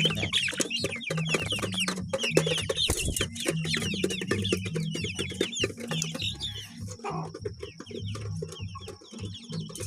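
A flock of chickens and other ornamental fowl clucking and chirping together in a busy, continuous chorus of quick high chirps over lower calls. A thin steady high tone joins in from about six seconds in.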